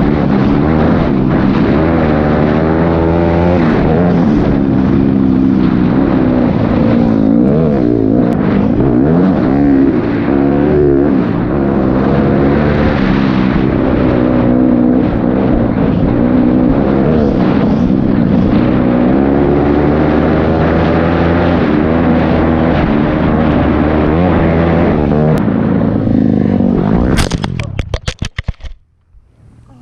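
Dirt bike engine running under way, its pitch rising and falling as the throttle changes. Near the end it breaks up into a few crackles and cuts out suddenly.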